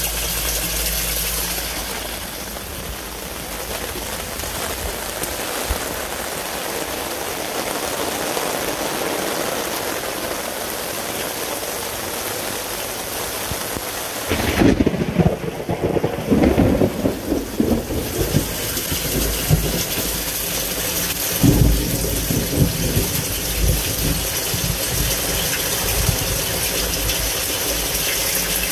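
Torrential rain pouring down in a thunderstorm, a steady hiss throughout, with a louder uneven rumble about halfway through and a shorter one a few seconds later.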